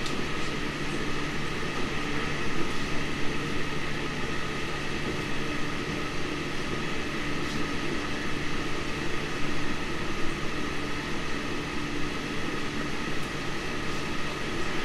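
Cabin running noise of a JR Central 313 series electric train: a steady, even rumble from the wheels and running gear, with a few held tones over it.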